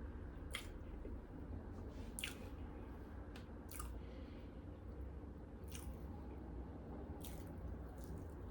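Close-up chewing of soft, moist frosted 7-Up cake, with about six sharp wet mouth smacks spread through the chewing.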